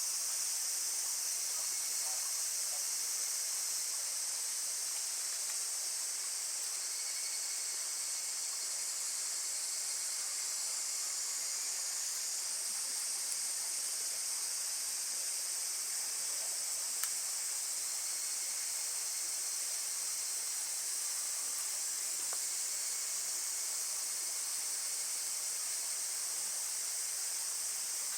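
A steady, high-pitched chorus of insects chirring without a break. One sharp pop stands out about seventeen seconds in.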